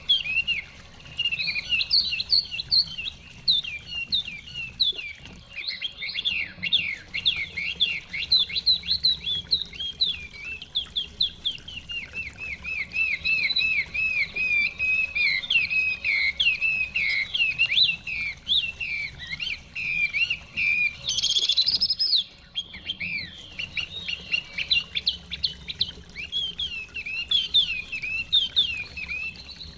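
Chinese hwamei (họa mi) singing a long, varied song of rapid repeated whistled notes, with a brief pause a little past the middle. A faint low rush of stream water runs underneath.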